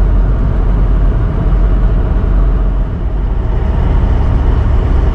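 Steady low rumble of a truck driving on the highway: engine drone and road noise, with a strong low hum and no breaks.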